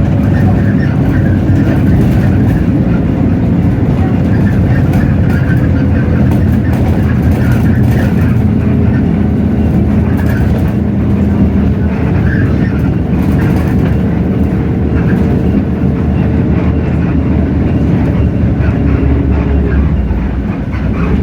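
Hino J08E-VN inline-six diesel engine of a Hino RK8JRVA-KJF city bus running under way, heard from inside the cabin. Its pitch rises and falls a little with road speed, and it eases off briefly near the end.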